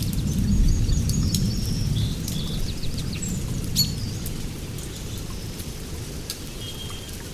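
Steady rain with scattered drips, over the low rumble of thunder slowly dying away. Birds chirp in short calls through the first four seconds or so.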